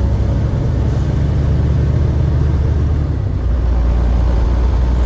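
Truck engine and road noise while driving, a steady low rumble.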